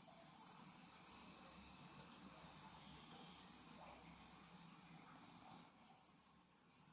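An insect, cricket-like, stridulating in a continuous high-pitched trill that breaks off about six seconds in.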